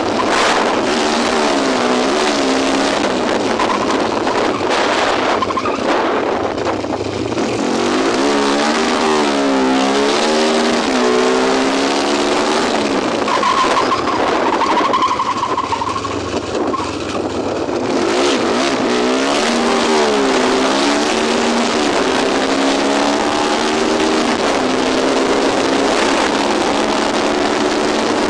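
A 293cc Tornado engine running and being revved, its pitch rising and falling again and again.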